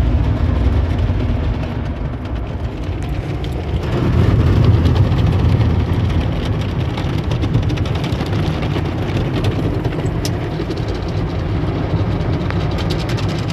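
Tunnel car wash machinery running: a steady low rumble with a spray-like hiss and fine crackle, swelling about four seconds in.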